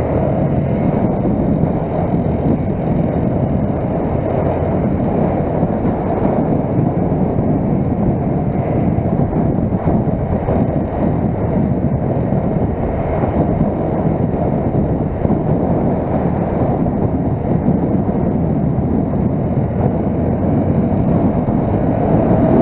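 A motorcycle under way at a steady speed: a continuous rush of wind and road noise over the engine, growing a little louder near the end.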